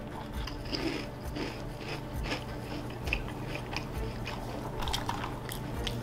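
A person chewing a mouthful of berry Froot Loops cereal in milk: soft crunches at irregular intervals.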